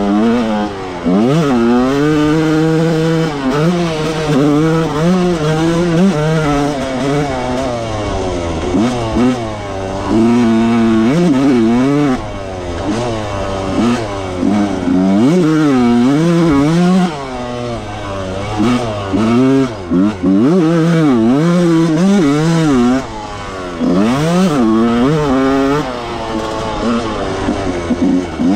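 1995 Yamaha YZ125 two-stroke motocross engine, ridden hard around a dirt track: the pitch climbs and drops over and over as the throttle is opened and rolled off and the gears are changed.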